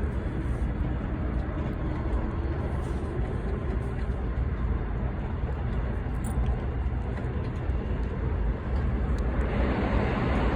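Airport Railroad (AREX) train running, a steady low rumble. It grows louder and brighter about nine and a half seconds in.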